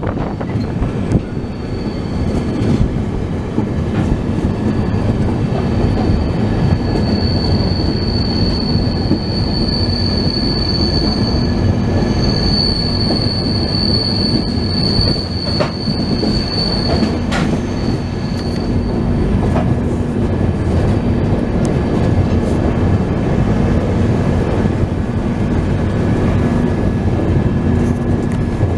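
Passenger train running on the rails: a steady rumble of wheels on track, with a high wheel squeal held for several seconds through the middle and a couple of sharp clicks.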